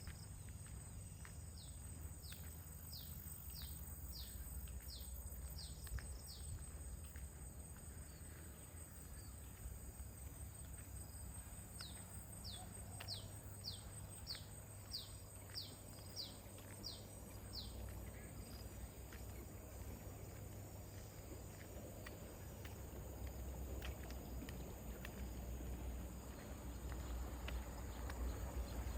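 A songbird singing two runs of about ten quick, high, down-slurred notes, a few seconds apart, over a low outdoor wind rumble that grows toward the end.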